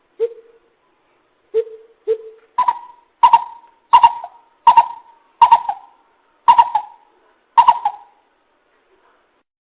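Coucal (bìm bịp) calling: three low hoots in the first two seconds, then a run of seven higher, clipped notes about two-thirds of a second apart, each trailing a short echo. It is a lure call, used to draw other coucals in.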